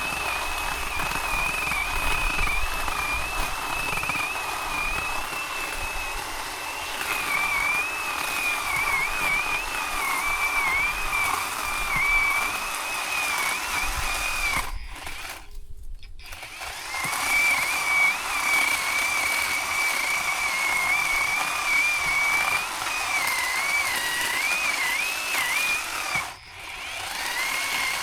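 Zhipu 48V cordless electric chainsaw running with a high motor whine that wavers in pitch as it works. It stops for a couple of seconds about fifteen seconds in, stops briefly again near the end, and starts back up each time.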